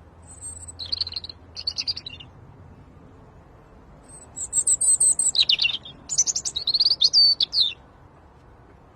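Birds chirping in two bouts: a few short high calls in the first two seconds, then a longer, louder run of rapid chirps from about four seconds in until near the end.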